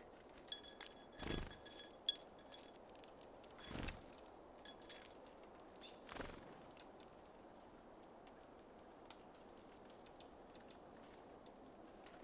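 Small birds at a seed feeder: a cluster of short, high chirp notes and light taps about a second in, then scattered ticks. Three soft thuds or flutters at intervals of a couple of seconds, the loudest things here.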